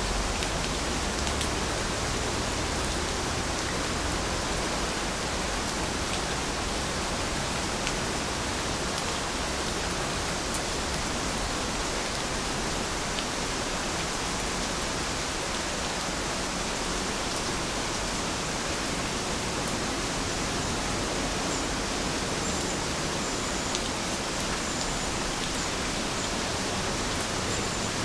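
Heavy rain falling steadily: an even, unbroken hiss with scattered single drop ticks. A few faint high chirps come in near the end.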